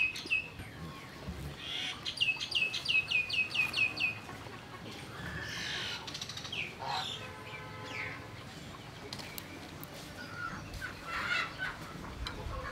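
Birds calling outdoors: a quick run of about eight short, high, downslurred chirps about two seconds in, a lower call with a rising note about seven seconds in, and softer chirping near the end.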